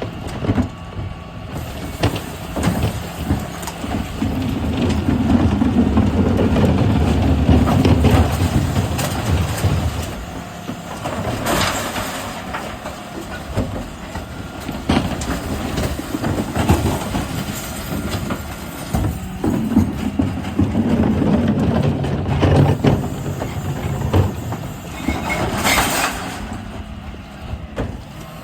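Dennis Elite 6 refuse truck at work on a recycling collection: the engine revs up to drive the bin lifters twice, amid clattering and banging of bins and recyclables, with two short sharp bursts of noise, about twelve seconds in and near the end.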